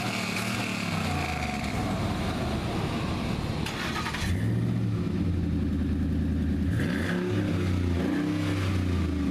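Manual-transmission car's engine revving and pulling away, its pitch rising and falling, then settling into a steady low drone about four seconds in. It is kind of loud.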